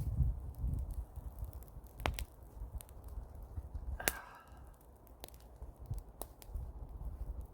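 Grass bonfire crackling, with scattered sharp pops, the loudest about four seconds in, over a low wind rumble on the microphone.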